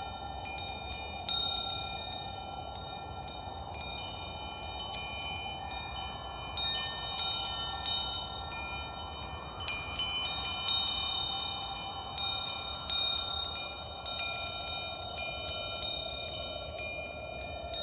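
Wind chimes ringing, struck at irregular moments with the tones overlapping and ringing on, over a soft steady rushing noise. The strongest strikes come about ten and thirteen seconds in.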